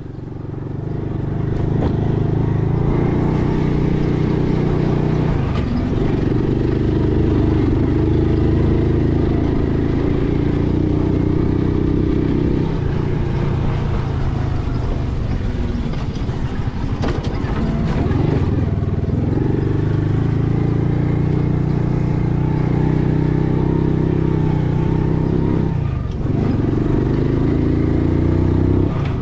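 A motor vehicle's engine running while driving along. Its note drops and picks up again several times, with a few knocks and rattles.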